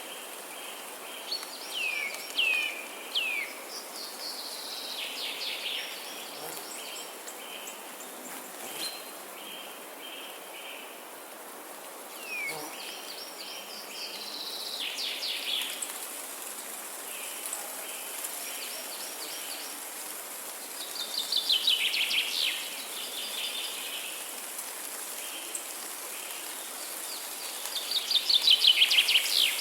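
Birds singing: several short chirps and sweeping notes, with fast trills that are loudest a little past the middle and near the end. Underneath runs an insect chirping in short, evenly repeated pulses, over a steady hiss.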